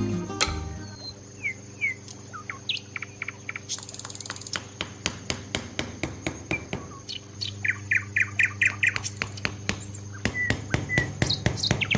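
Small birds chirping in short rising and falling calls over a steady low hum, with many sharp clicks or taps, coming faster in the second half.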